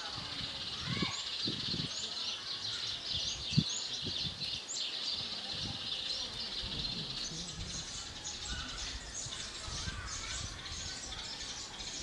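Small birds chirping in a tree: short high calls scattered through, growing busier in the second half. A steady high hiss underneath fades after about three seconds, and there is a single sharp knock about three and a half seconds in.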